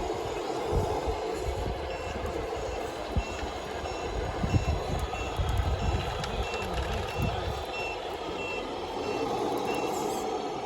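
Vehicle reversing alarm beeping steadily, about two short high beeps a second, starting about two seconds in and stopping near the end, over low rumbling noise and a steady hum.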